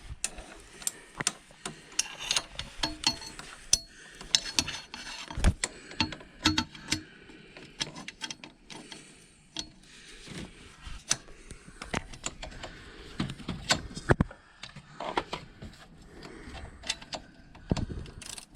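Socket ratchet clicking in short, irregular runs, with sharp metallic knocks, as the nuts holding the scooter's exhaust downpipe to the cylinder head are loosened.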